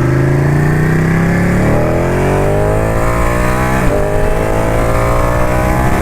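Ducati motorcycle engine accelerating through the gears. Its pitch climbs steadily and drops at upshifts just under two seconds and about four seconds in.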